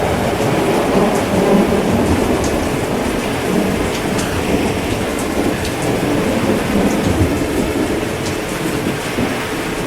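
Steady heavy rain with a low rolling rumble of thunder underneath, and scattered sharp drop ticks on top.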